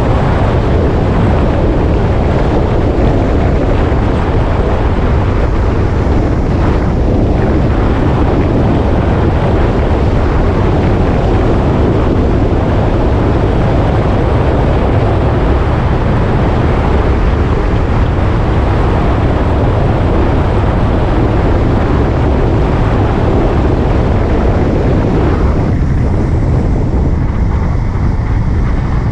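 Wind rushing over the microphone of a moving motorcycle, with its engine running underneath; loud and steady, the higher hiss thinning a little near the end.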